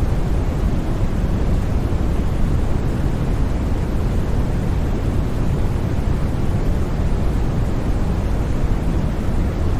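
Continuous synthetic white noise for sleep: an even, unchanging hiss with no tones or breaks, its weight in a deep low rumble.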